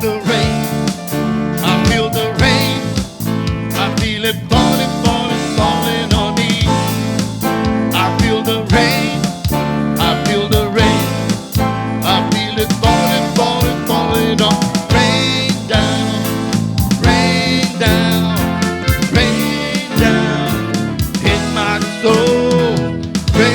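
Worship-song band music with guitar and drum kit.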